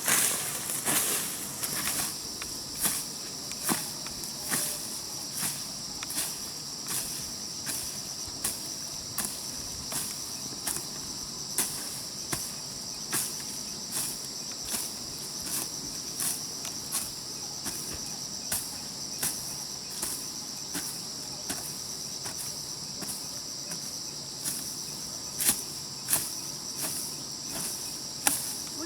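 Insects, crickets or cicadas, keep up a steady high drone, while a garden hoe chops into grassy soil in regular strikes about once a second, a few of them harder near the end.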